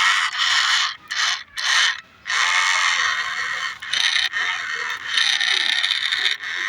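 Small, heavily geared electric motor and gearbox of a remote-control New Holland toy tractor running, in short start-stop bursts for about two seconds, then steadily.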